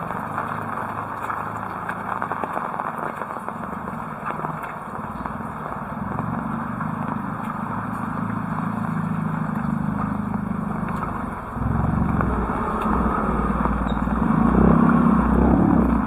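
Steady heavy rain falling, with a vehicle engine passing close by, getting louder about three-quarters of the way through and loudest near the end.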